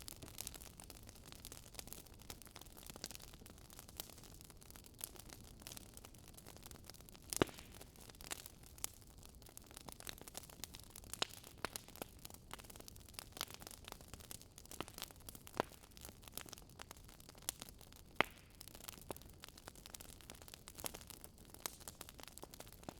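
Wood fire crackling in a fireplace: irregular sharp pops and snaps over a faint low hiss, with a louder pop about seven seconds in and another near eighteen seconds.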